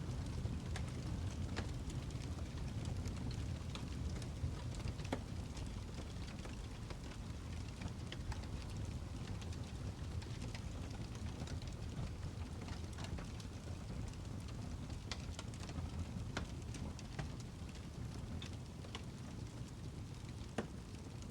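Birchwood fire burning in a fireplace: a steady low rumble of flames with irregular sharp crackles and pops, one louder pop near the end.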